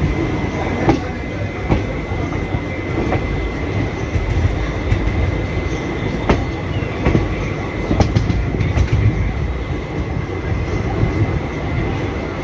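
Passenger express train running on the line, with a steady rumble of the coach and wheels and sharp clickety-clack clicks as the wheels pass over rail joints at irregular spacing.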